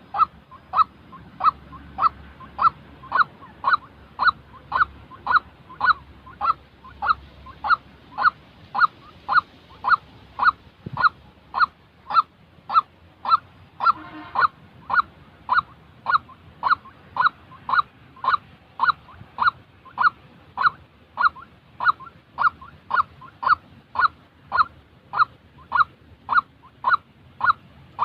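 White-breasted waterhen calling: a long, even series of short, slightly downward-sliding notes, about one and a half a second.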